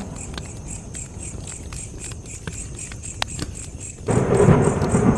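Campfire crackling with scattered sharp pops, over a cricket chirping steadily about four times a second. About four seconds in, a louder low rumble comes in suddenly.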